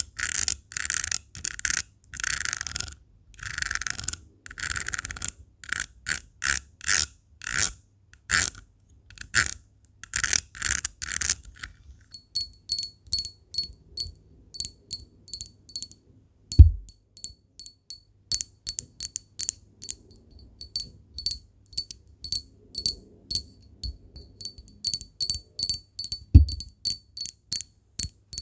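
Rhinestone gems being scratched in quick, rasping strokes. About twelve seconds in this gives way to rapid tapping on glass, each tap with a short, high ring. Two dull thumps, the loudest sounds, come during the tapping.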